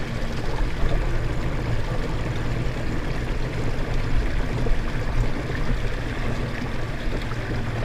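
Water rushing steadily along a small fishing kayak's hull as it runs at about 4 mph, pushed hard by a 55 lb-thrust electric trolling motor, with a low hum underneath.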